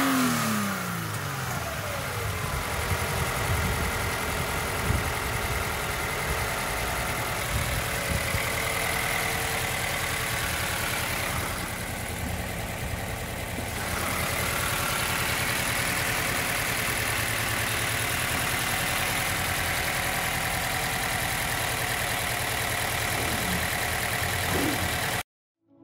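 Toyota 86's 2.0-litre flat-four boxer engine settling from a throttle blip into a steady idle in the first second, then idling evenly. The sound cuts off abruptly a little before the end.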